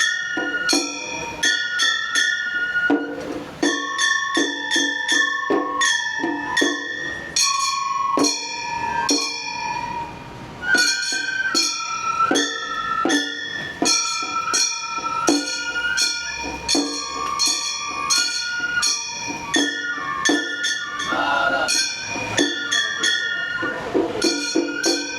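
Gion bayashi festival music: a high transverse flute melody moving in steps over rapid, ringing strikes of small hand-held brass gongs (kane).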